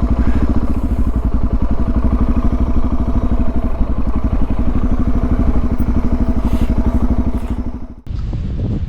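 Suzuki DR650's single-cylinder four-stroke engine running at a steady cruise while riding. It cuts off suddenly near the end, giving way to wind on the microphone.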